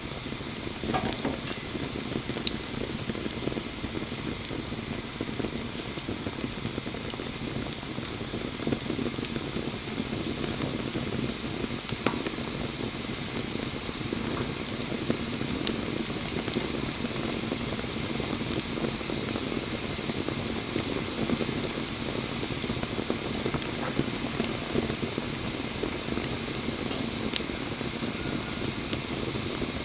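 Campfire burning with a steady hiss and scattered sharp crackles and pops.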